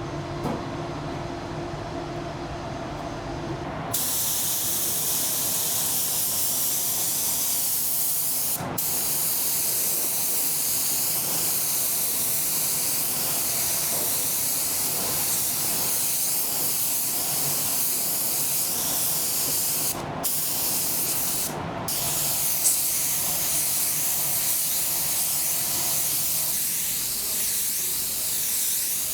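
Compressed-air paint spray gun spraying primer: a loud steady hiss that starts about four seconds in, after a low hum, and cuts out briefly three times as the trigger is let go.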